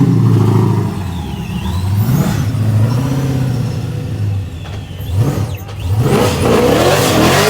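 Nissan 370Z drift car's engine revving hard, its pitch rising and falling in repeated blips. About six seconds in it turns louder and harsher, with a rushing hiss over the engine.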